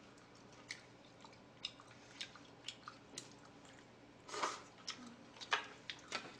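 Chewing and mouth sounds of people eating shabu-shabu with chopsticks, with scattered soft clicks of chopsticks and plates; a few louder smacks and clicks in the second half.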